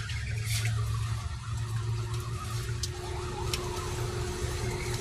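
Arrma Granite electric 1/10-scale RC monster truck running on wet ground in the rain, its motor and tyres making a steady noise, with a thin steady whine from about two seconds in.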